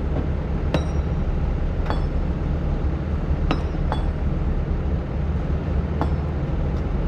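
Excavator's diesel engine running steadily under load, with sharp metallic clinks that ring briefly, about five of them at uneven intervals.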